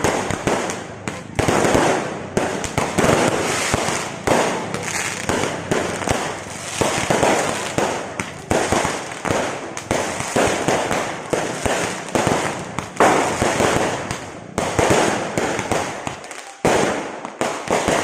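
Fireworks going off in a dense, continuous barrage of bangs and crackling, with a fresh loud burst about every second and a brief lull near the end.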